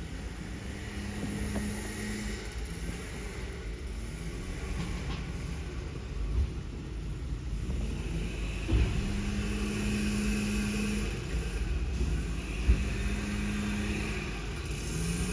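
Scania recycling truck's diesel engine running with a steady low rumble and a hum that swells and fades, with three short thumps in the second half.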